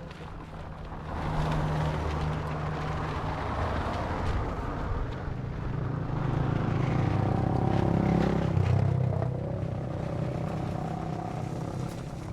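Vehicle engine running while on the move, with a steady low hum that rises in level about a second in and shifts in pitch midway as the speed changes.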